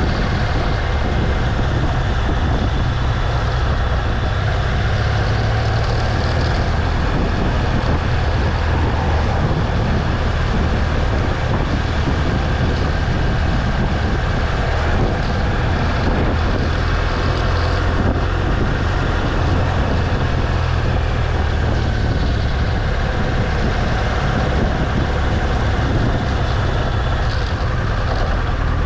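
BMW R1200 GS Adventure's boxer-twin engine running steadily while riding, a low rumble mixed with wind and road noise.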